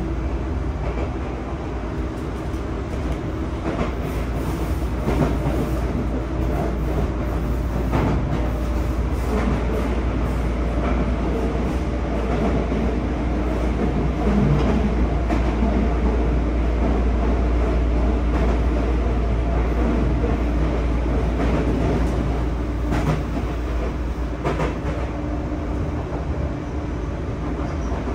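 Interior running noise of a Sotetsu 9000 series train with a Hitachi IGBT-VVVF inverter: steady wheel-on-rail rumble with a steady hum from the traction drive and now and then a sharp clack over rail joints. It gets a little louder in the middle, while the train runs through a tunnel.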